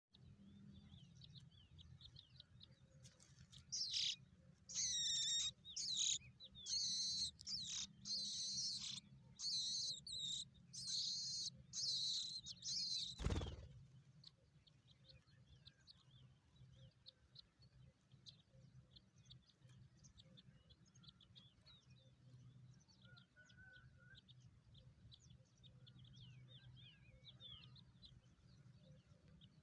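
Nestling birds in the nest chirping in about nine high, shrill bursts of roughly a second each. The bursts end with a sharp knock, after which only faint scattered chirps remain.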